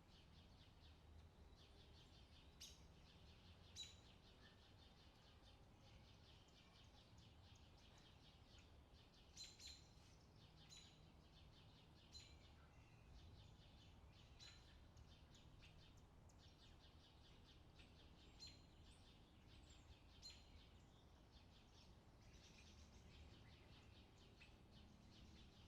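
Faint forest birdsong: scattered short chirps and calls from several birds over a low, steady background hum.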